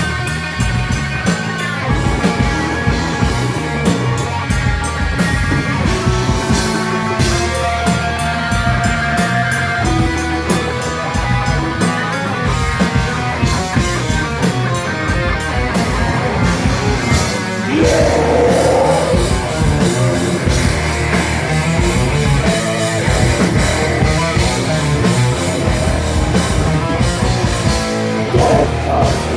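Live rock band playing: electric guitars and a drum kit, loud and continuous, growing louder about two thirds of the way through.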